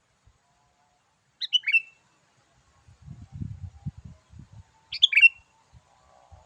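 Sooty-headed bulbul calling: two short, quick bubbling phrases about three and a half seconds apart. Soft low thumps and rumble sound between the two phrases.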